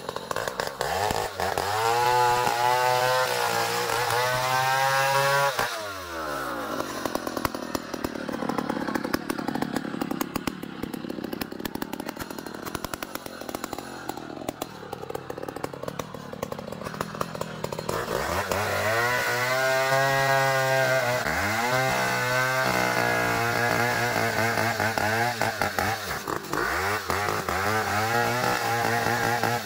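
Band sawmill cutting an ironwood (ulin) log: its motor revs up, falls away about six seconds in, runs rougher and lower for a while, then revs up again around eighteen seconds in and holds.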